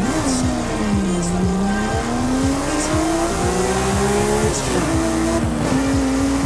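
Porsche Speedster flat-six engine under way, its pitch dipping and then climbing steadily, with a sudden drop about four and a half seconds in as it shifts up before climbing again. Music with a steady kick-drum beat plays underneath.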